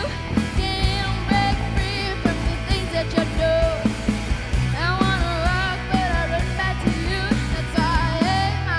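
Live rock band playing: a steady drum beat and bass under a pitch-bending lead melody, with the bass moving to a new note about halfway through and again near the end.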